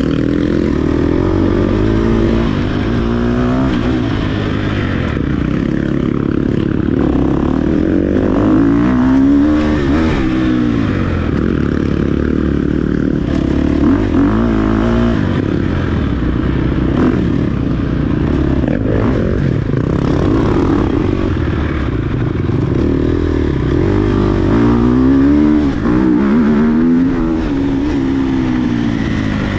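Off-road dirt bike engine ridden hard, revving up and falling back again and again as the rider accelerates and shifts, with a rough, noisy wash under it.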